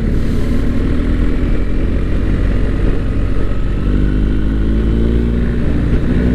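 BMW GS boxer-twin motorcycle engine chugging at low revs in third gear, the note rising in pitch about halfway through as the bike gathers speed.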